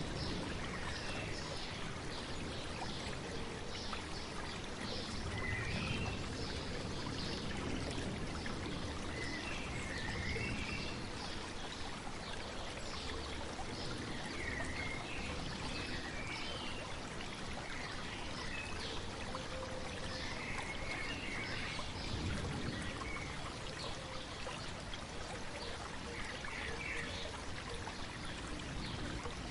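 Stream babbling steadily, with a small bird chirping in short phrases every few seconds.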